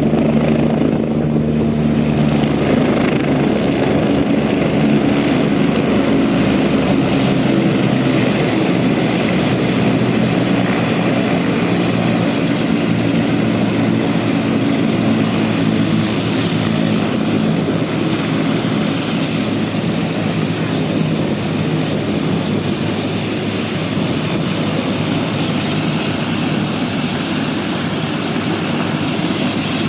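Air-ambulance helicopter's turbine engine and rotor running steadily and loudly; the deepest tones drop away about seven seconds in.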